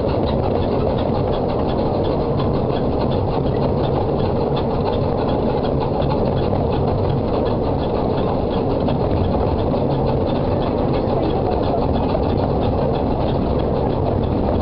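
Small-gauge heritage railway train running, a steady rumble with a fast, regular ticking.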